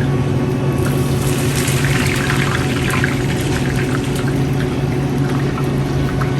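Steady mechanical hum with a rustling, crackly noise that grows louder about two seconds in.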